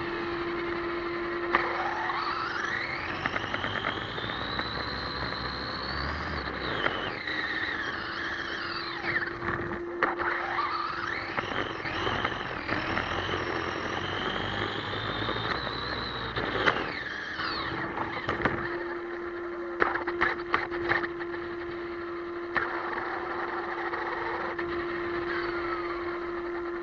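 Electric motor of an ECX Amp MT radio-controlled monster truck whining, its pitch rising and falling several times as the throttle is worked. There are a few short clicks or knocks about twenty seconds in.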